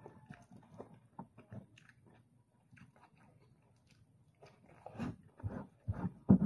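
A person chewing and biting a mouthful of rice and egg close to the microphone, with soft wet mouth clicks. Faint at first, it goes nearly quiet for a couple of seconds, then grows louder from about five seconds in.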